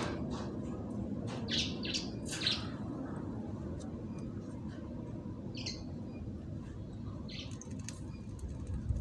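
A bird chirping in short, high calls: a quick run of chirps in the first couple of seconds, then single chirps every second or two, over steady low background noise.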